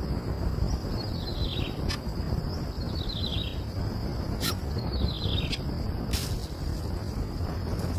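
A bird calling over and over, each call a short falling note, about every one and a half to two seconds, over a steady high-pitched tone and a low rumble, with a few sharp clicks.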